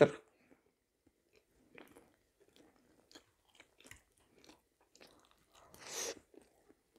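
Close-miked mouth chewing fried potato slices, with faint scattered wet clicks. A louder, breathy sound of about half a second comes near the end as another forkful goes into the mouth.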